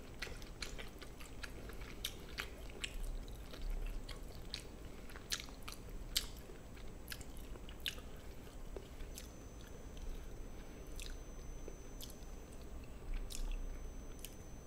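A person chewing mouthfuls of gochujang-marinated chicken close to the microphone, with scattered small wet clicks and smacks from the eating.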